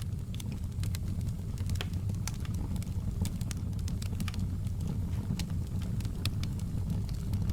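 Campfire burning with a steady low rumble of flames and irregular sharp crackles and pops of the burning wood, several a second.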